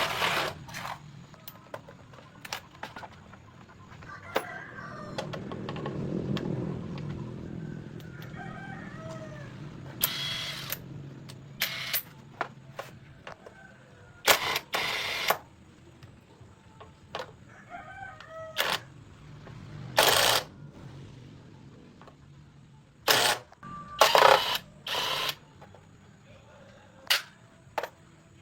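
Chickens clucking, with a rooster crowing, behind a series of sharp knocks and clacks from motorcycle tyre repair work. The knocks come irregularly, several close together near the middle and again toward the end, and are louder than the birds.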